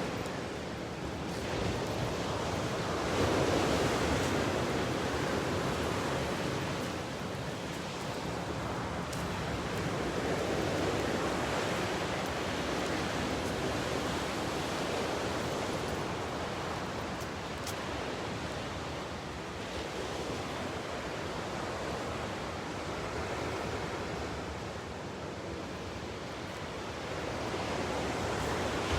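Ocean surf: large waves breaking and washing in a continuous rushing wash that swells and eases every few seconds.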